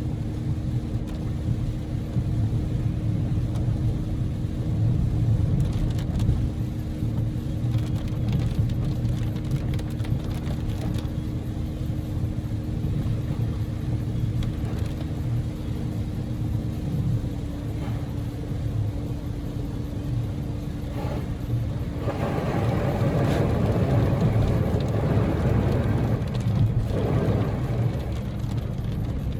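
Road and engine noise inside the cabin of a Daihatsu Move with an EF-VE three-cylinder engine at highway speed in heavy typhoon rain: a steady low rumble with an engine hum whose pitch shifts about 17 seconds in. About 22 seconds in, a louder rushing hiss of rain and spray builds up and lasts for several seconds.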